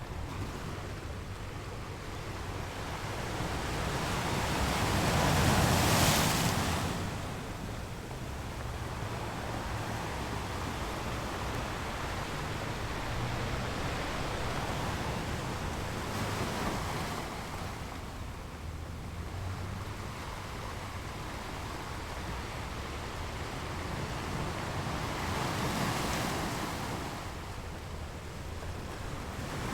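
Ocean waves rolling and breaking on a shore, a steady wash of surf with one big wave cresting about six seconds in and a smaller one near the end.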